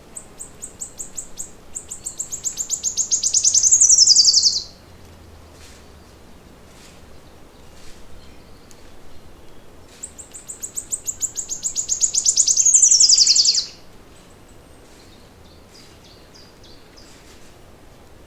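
A songbird sings two long trilled songs several seconds apart. Each is a rapid, high-pitched run of repeated notes that grows louder and ends in a quick falling sweep. Fainter chirps come in between.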